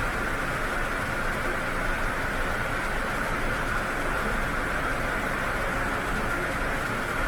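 Steady rushing noise of sea water, even and unbroken, with no rise and fall of separate waves.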